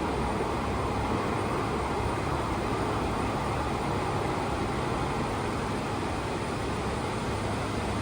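Steady machinery noise: an even rumble and hum with no breaks, and a faint high-pitched tone running above it.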